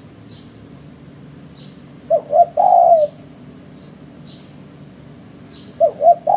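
Spotted dove (tekukur) cooing: two short notes followed by a longer drawn-out coo about two seconds in, and the same phrase starting again near the end.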